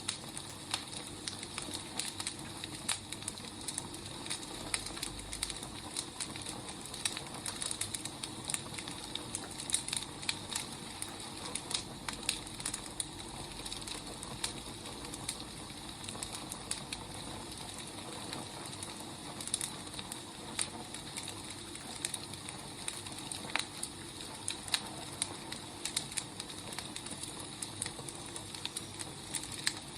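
Wood fire burning: a steady hiss with frequent irregular crackles and pops from the burning logs.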